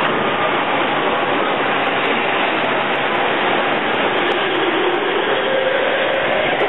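Steady running noise heard inside an E231-series Yamanote Line commuter train, with a faint tone rising in pitch over the second half.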